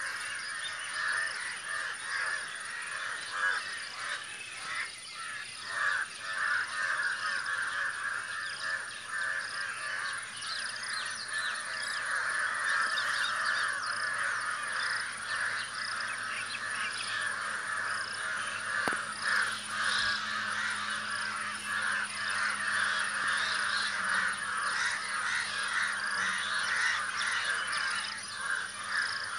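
A flock of crows cawing continuously, many calls overlapping into a dense chorus.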